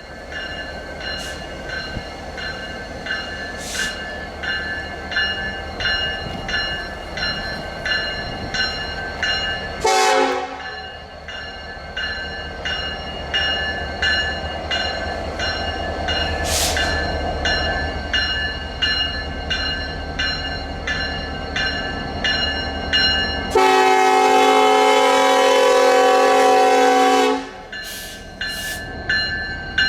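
A diesel locomotive rumbles past while a bell rings steadily, about one and a half strokes a second. The train horn gives a brief sound about ten seconds in, then a loud blast of about four seconds near the end.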